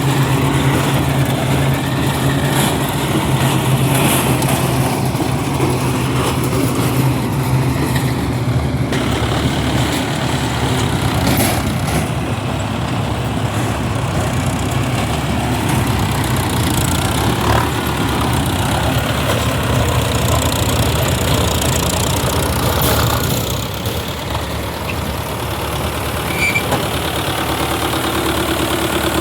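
Tractor engine running steadily, easing off a little about three-quarters of the way through.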